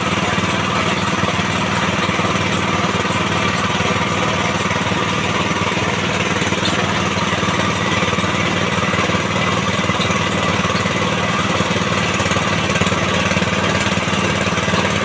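Small engine of a bore-well drilling machine running steadily at a constant speed.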